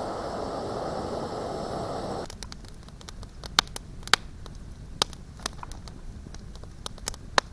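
A steady rushing hiss that cuts off suddenly about two seconds in, then a wood campfire crackling, with sharp, irregular pops.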